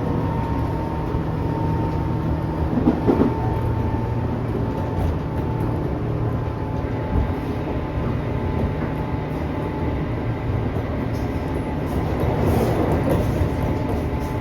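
Running sound inside a Tobu 10000 series electric train's motor car. A continuous rumble carries several steady tones, with a short clatter about three seconds in and a louder, noisier stretch near the end.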